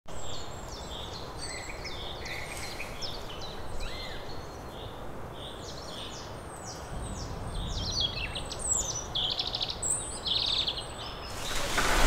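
Songbirds singing: short high chirps repeated again and again, with a few rapid trills about nine to ten seconds in, over a faint steady outdoor background. Just before the end a broader, louder noise swells up.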